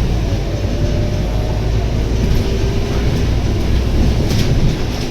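Scania K230UB bus's 9.3-litre DC9 diesel engine running under way, a steady low rumble mixed with road noise, with a faint held whine above it. A brief rattle comes a little after four seconds in.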